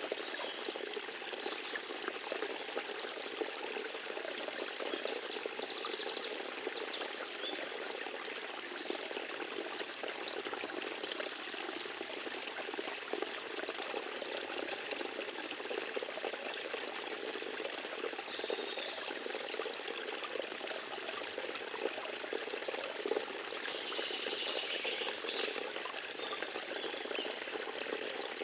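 Forest stream trickling and splashing steadily over its bed, an even rushing water sound with no let-up.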